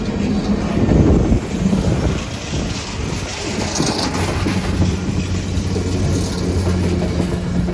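Train passing close by, a diesel locomotive's engine running with a steady low drone under rolling noise, loudest about a second in.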